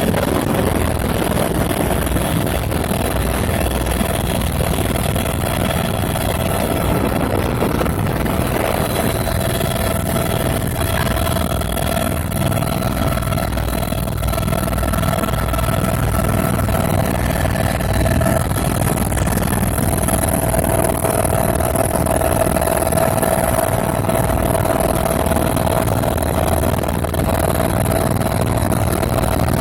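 Helicopter in flight: a steady engine whine over the dense low rumble of the rotor.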